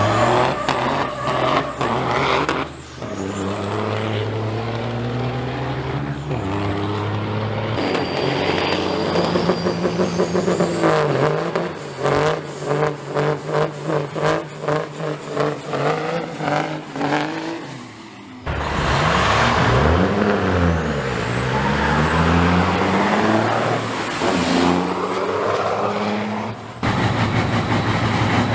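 Big-rig diesel semi truck engines running hard under load through several gears, their pitch climbing and then dropping at each shift, with a high turbo whistle rising over them. Several separate runs follow one another with abrupt cuts between them.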